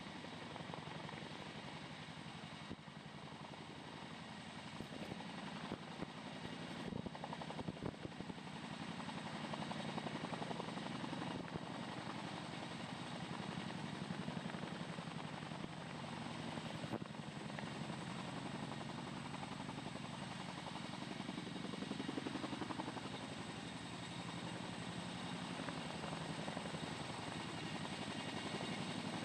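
Tandem-rotor CH-47 Chinook helicopter hovering under load, its rotor blades beating in a rapid steady pulse over the turbine noise. It swells somewhat louder a few times.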